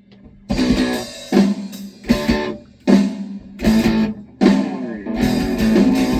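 Rock band playing: distorted electric guitar chords with bass and drums, hit in short, punchy bursts about once a second that begin about half a second in.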